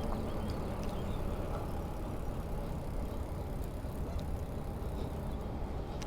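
Steady low rumble of wind and rolling noise while riding a bicycle, with a few faint ticks.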